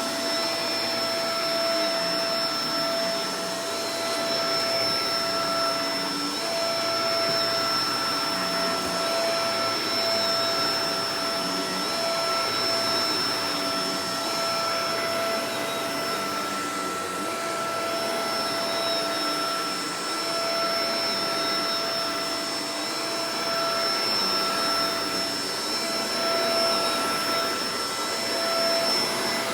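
Shark Professional Powered Lift-Away DLX (NV586) vacuum cleaner running steadily: a constant rush of air with a steady motor whine over it.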